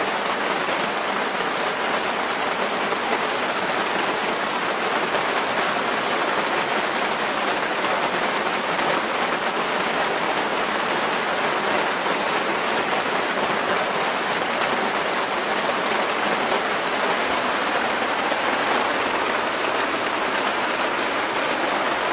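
Steady rain falling and pattering on surfaces, a constant even hiss with no let-up.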